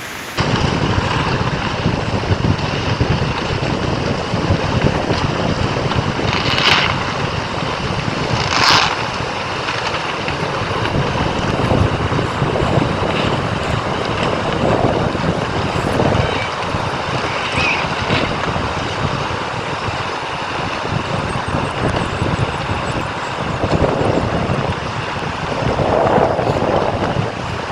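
Strong storm wind buffeting the microphone, a loud, dense rush of noise, with two brief sharper hisses about seven and nine seconds in.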